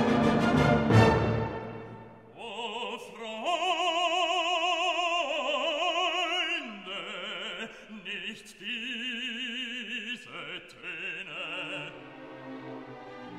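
Operatic solo singing with wide vibrato on long held notes, after a loud orchestral chord with brass fades away in the first two seconds.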